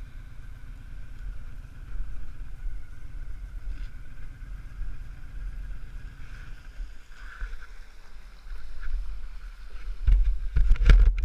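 Honda VTX1300's V-twin engine running low and slow, a steady low rumble that drops away about seven seconds in. Near the end come several loud knocks and bumps on the camera.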